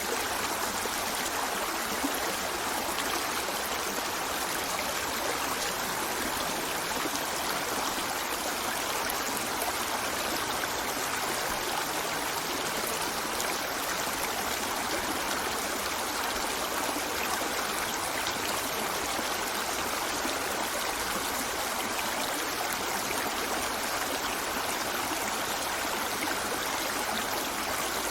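A shallow river running over rocks: a steady rush of flowing water with a fine trickling texture, unchanging throughout.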